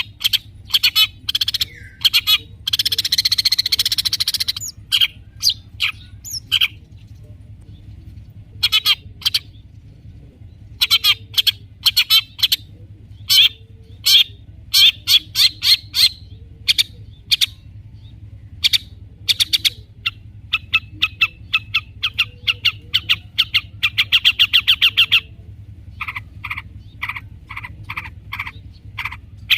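Long-tailed shrike (cendet) singing: loud, sharp notes repeated in quick series and fast chattering runs, with a harsh rasping call about three seconds in. A faint steady low hum lies underneath.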